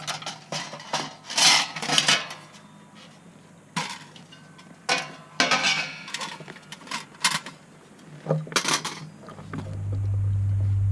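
Thin metal plates of a folding stainless-steel fire pit clanking and clinking as they are handled and fitted together, in a dozen or so irregular sharp knocks. A low steady hum swells up near the end.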